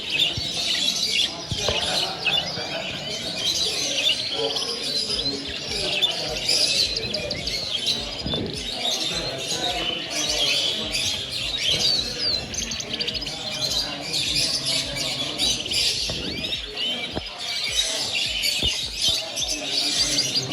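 Many caged finches chirping and calling at once, a dense chatter of short overlapping tweets with no let-up, over a low hubbub.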